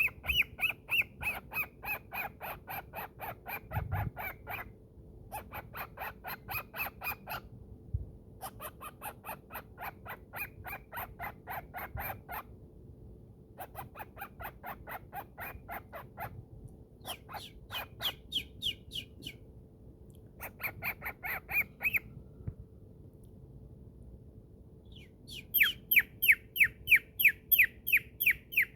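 Cockatiel chattering in bouts of rapid, evenly repeated short calls, about four to five a second, with short pauses between bouts. Near the end a louder run of downward-sweeping chirps begins.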